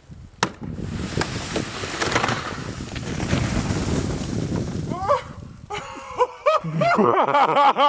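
Loud rushing noise of wind and water for about five seconds, then a person's voice in quick, repeated rising-and-falling cries near the end.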